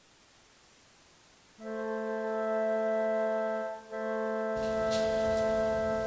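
Near silence, then from about a second and a half in, organ chords held long, with a brief break near the middle, as background music. A few faint clicks sound under the second chord.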